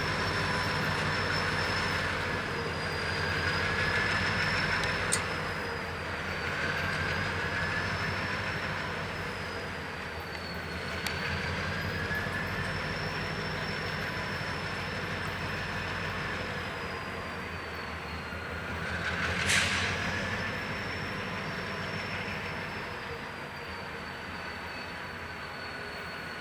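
Freight cars rolling slowly on curved track with a high, wavering wheel-flange squeal, a low steady rumble underneath and a few sharp metallic clanks, the loudest about three quarters of the way through.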